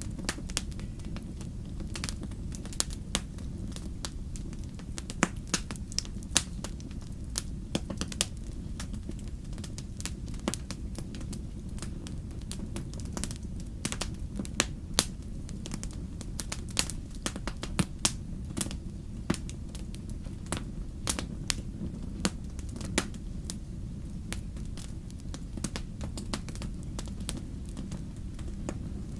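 Wood fire in a fireplace crackling, with irregular sharp pops, several a second and some much louder than the rest, over a steady low rumble.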